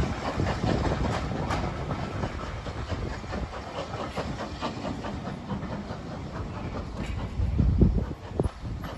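A train rolling past, its wheels clicking over the rail joints, with wind buffeting the microphone, strongest near the end.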